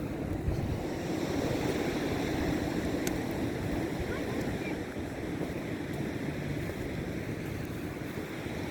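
Steady wash of wind and seawater noise, with some wind buffeting the microphone.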